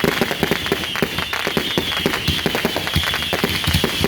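Many backyard consumer fireworks firing at once: a dense, unbroken string of rapid bangs and crackles, with a high whistling tone running through it.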